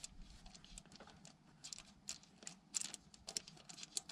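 Faint, irregular clicks and light ticks of a hand tool working a bolt loose at the back of the engine's intake.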